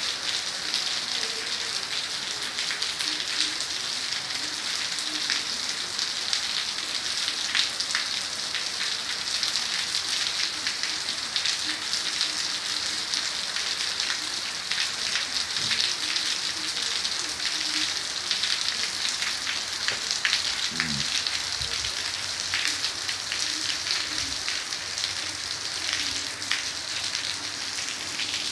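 Heavy rain falling steadily, a dense hiss with many sharp drop ticks as it hits surfaces.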